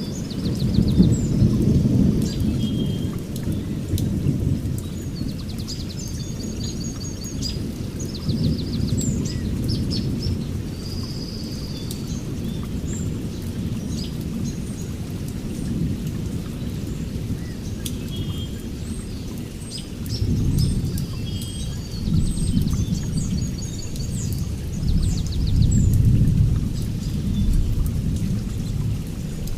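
Rolling thunder rumbling in long swells over steady rain, with several small birds chirping and trilling throughout.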